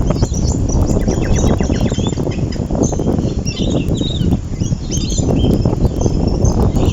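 Small birds chirping and twittering in many short, quick calls over a loud, continuous low rumble of wind.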